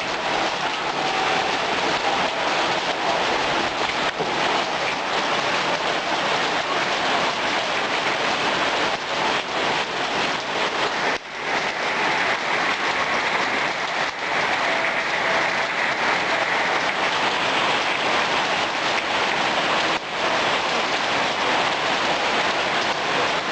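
Heavy rain pouring down, a steady dense hiss of drops hitting surfaces, with a brief lull about eleven seconds in.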